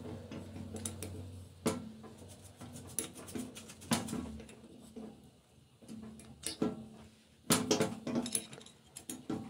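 Irregular metallic clinks and knocks of parts and hand tools being handled during reassembly of a Peugeot 206 oil pump, with a cluster of sharper knocks near the end.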